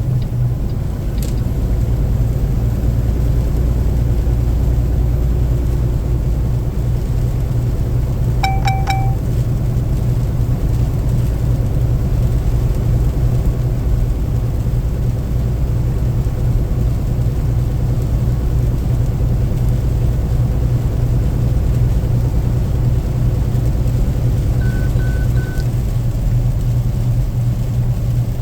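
A car's road and engine rumble heard from inside the cabin while driving, low and steady. Two brief electronic beeps cut through it: a short chirp about a third of the way in, and three quick higher beeps near the end.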